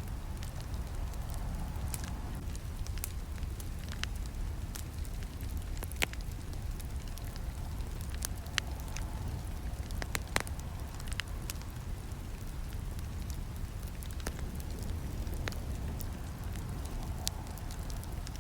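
Campfire crackling: a steady low rumble of burning wood with frequent sharp snaps and pops, a few louder ones about six and ten seconds in.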